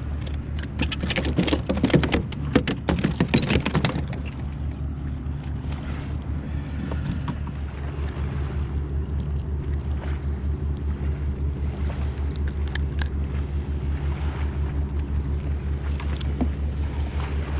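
Clattering and clicking for the first few seconds, like the fish and gear being handled on the kayak, then a steady low mechanical hum with a regular pulsing beat.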